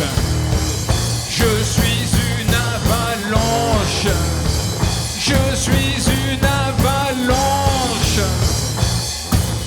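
A rock band playing live, with a steady drum beat and bass under a wavering melodic lead line.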